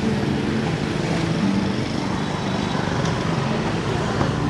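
Steady city street traffic noise from passing engines, with the tail of street music fading in the first second or so.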